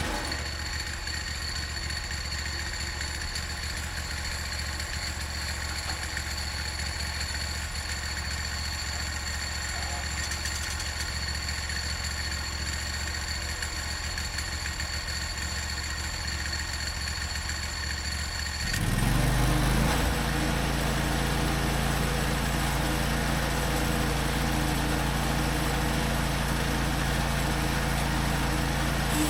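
Portable bandsaw mill's gasoline engine, just started, idling steadily, then revved up about two-thirds of the way in and running on at a higher, louder steady speed.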